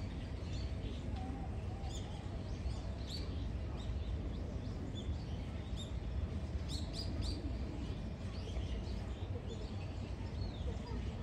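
Small birds chirping and twittering, many short high calls, with a quick run of them about seven seconds in, over a steady low rumble.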